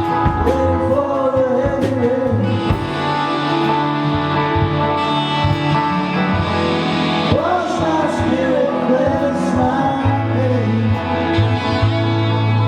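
Live acoustic band music: guitar with a wavering melody line over it, sung or bowed.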